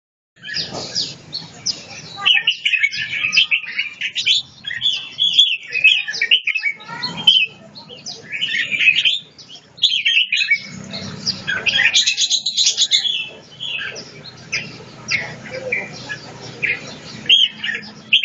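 Red-whiskered bulbul of the Chong Chi song line singing: rapid, chattering, warbling phrases of quick notes, broken by short pauses.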